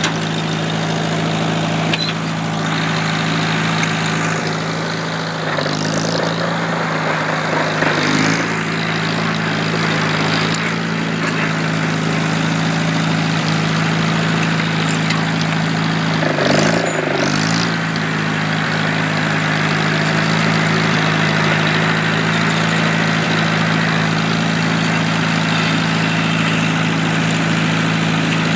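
1947 Allis-Chalmers C's four-cylinder gasoline engine running steadily, warmed up after a cold start, with a few brief clunks along the way.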